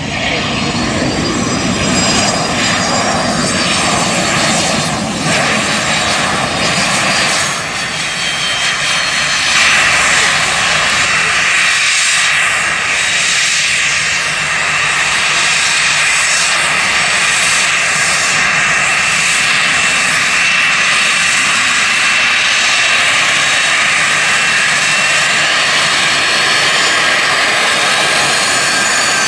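Cessna Citation XLS+ business jet's twin Pratt & Whitney PW545C turbofans running with a steady rushing noise and high-pitched whining tones, growing louder about ten seconds in and then holding steady.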